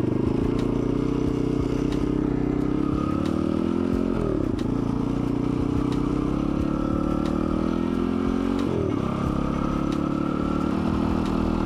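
Dirt bike engine running while riding, its pitch dipping sharply and climbing back twice, about four and nine seconds in, with light clattering over the ride.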